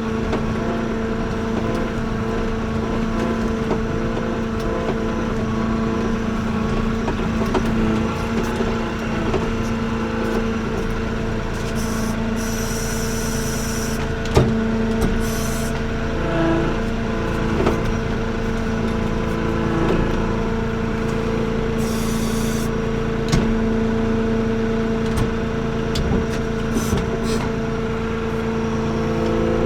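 Avant 755i compact loader's engine running at a steady speed while it works. Scattered knocks and clatter of debris, and two short hisses.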